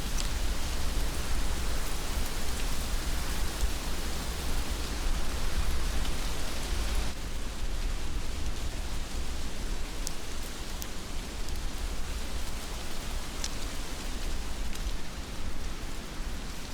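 Heavy rain falling steadily, a dense even hiss over a low rumble, with a few sharp drip ticks. The hiss turns a little softer and duller about seven seconds in.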